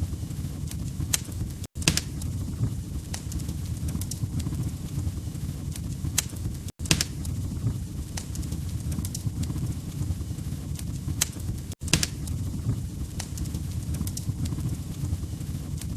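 Log fire crackling: a steady low rumble of flames with scattered sharp pops and snaps. The sound cuts out for an instant three times, about five seconds apart.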